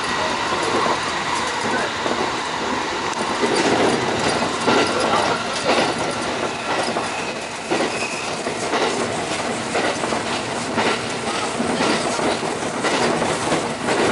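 Running noise of a local train heard inside the passenger car: a steady rumble and rush of wheels on rail, with irregular clicks and clatter over rail joints.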